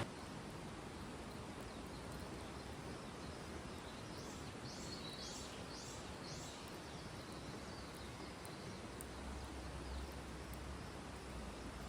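Quiet outdoor ambience: a faint, steady hiss with a small bird calling a quick run of about five short, falling high notes about four seconds in. A faint low rumble, like wind, comes in during the second half.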